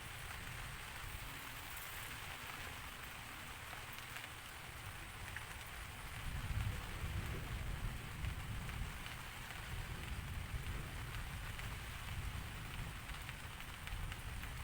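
Steady rain falling, with a low rumble underneath that swells a little about six seconds in.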